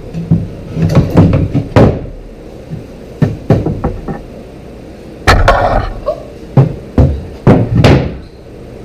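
Irregular wooden knocks and thuds: a plywood hatch door and deck panel being handled and set into place to test the fit, some knocks coming in quick clusters.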